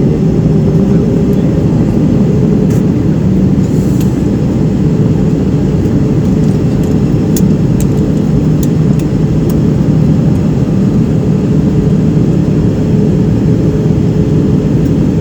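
Airbus A319's CFM56-5B jet engines running steadily before takeoff, heard from inside the cabin as a constant drone with a low held hum. A few faint ticks sound over it.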